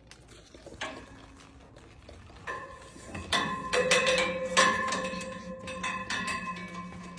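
Metal objects clinking and clattering: a run of sharp knocks that leave ringing tones fading away slowly.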